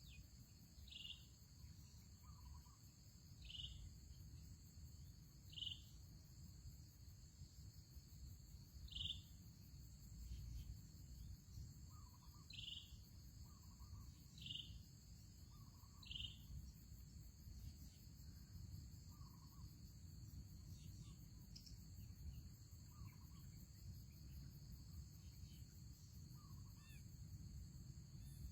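Faint outdoor ambience of insects trilling steadily at a high pitch, with a short high bird chirp repeating every one to two seconds and softer, lower calls in between.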